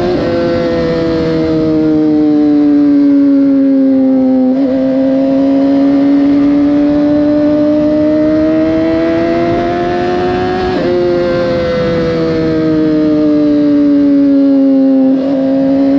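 Motorcycle engine running under way, its pitch sinking, then climbing steadily for about six seconds, then sinking again. Short breaks in the tone come about a third of the way in, about two thirds in and near the end.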